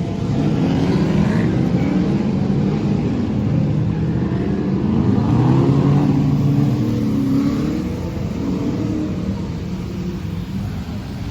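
Car engine running and revving, its pitch rising and falling. It is loudest around the middle and eases off over the last few seconds.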